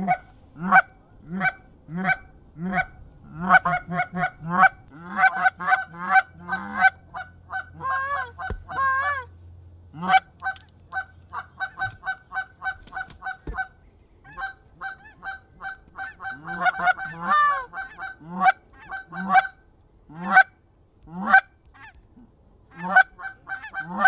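Geese honking over and over, a string of short calls that sometimes overlap and crowd together.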